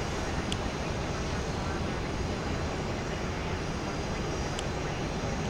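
Jet engines of a Boeing 777-200ER, General Electric GE90s, running with a steady rushing noise, with a couple of faint short ticks.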